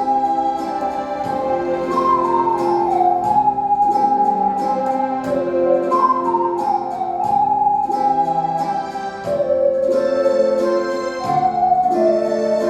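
An ocarina ensemble playing a slow melody in unison, pure breathy tones stepping and gliding downward in phrases, over a keyboard accompaniment with a gentle steady beat.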